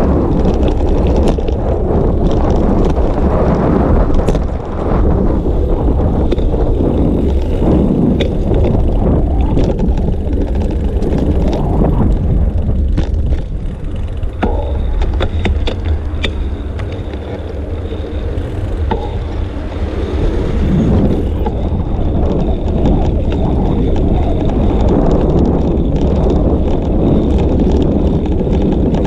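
Wind buffeting a bicycle-mounted action camera's microphone while riding, a heavy low rumble, with scattered rattles and clicks from the bike over the road surface. The wind eases for several seconds in the middle.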